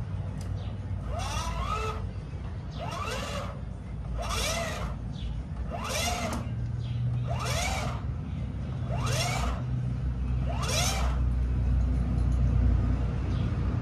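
A dog giving a run of short yelping cries, each rising and falling in pitch, about one every second and a half, over a steady low hum.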